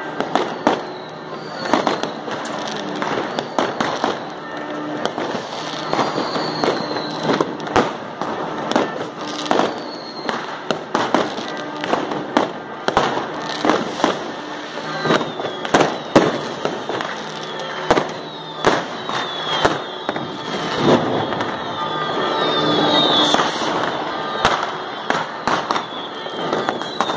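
Fireworks and firecrackers going off continuously in a dense, irregular string of sharp bangs. A few falling whistles cut through the bangs.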